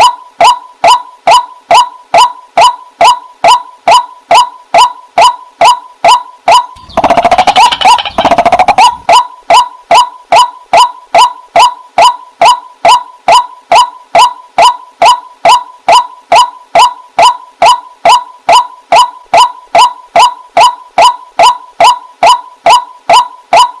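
Waterhen calling: a long, very regular string of short, identical pitched notes, about two and a half a second. About seven seconds in, a harsher, noisier stretch of calling lasts roughly two seconds.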